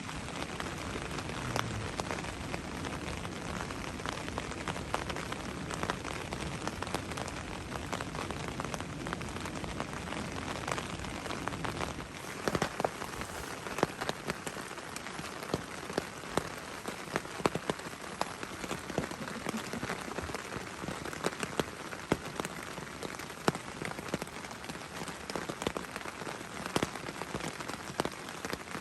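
Steady rain falling, with many single drops ticking on a surface. About twelve seconds in the low rumble drops away and the separate drop hits stand out more.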